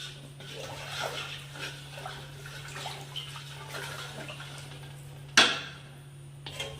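Water sloshing and kitchen utensils clattering over a steady low hum, with a sharp loud knock about five seconds in and a smaller one near the end.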